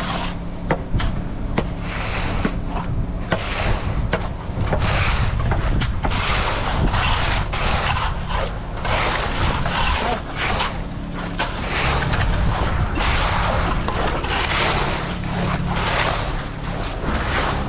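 A large engine running steadily, under repeated surges of rushing, scraping noise and wind on the microphone, with light clicks and knocks in the first few seconds.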